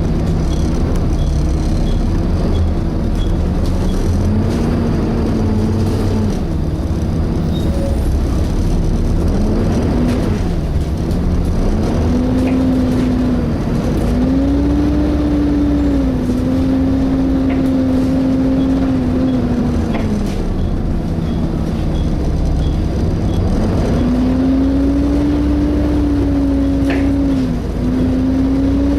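On board a Volvo B7TL double-decker bus: the engine runs with the cooling fan's vacuum-cleaner-like whine over a low rumble. The whine's pitch rises and falls in steps, holding steady for a few seconds between changes.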